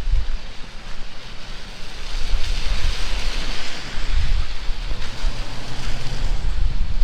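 Heavy rain pouring down in a steady hiss that swells for a couple of seconds around the middle, with strong wind buffeting the microphone in low rumbling gusts.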